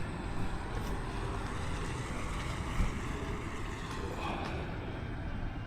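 Wind buffeting the microphone in a steady low rumble, with a faint brief sound about four seconds in.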